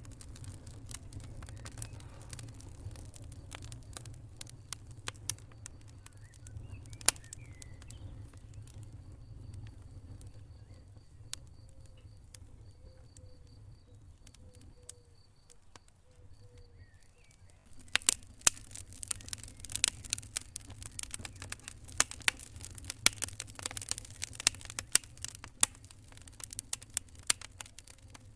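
Wood fire crackling in a fireplace: a steady low rumble of flames with scattered sharp pops, quieter in the middle and turning into busy, rapid crackling about eighteen seconds in.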